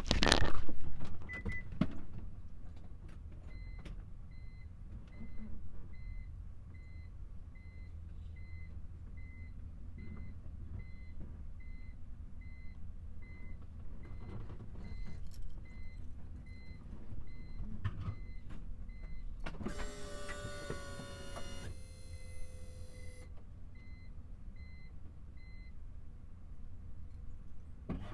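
A car's warning chime beeping steadily, about two beeps a second, after a thud at the start like a car door shutting. Near the end a small electric motor in the car whirs for about three seconds, its pitch falling slightly, before the engine is started cold.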